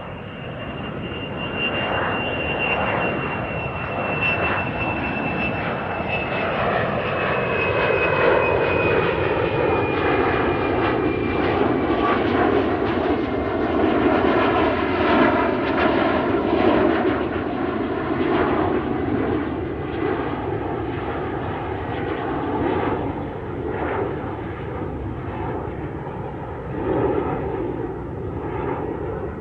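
An aeroplane flying past. Its engine noise swells to a peak around the middle and then slowly eases off, with a high whine that slowly drops in pitch as it goes by.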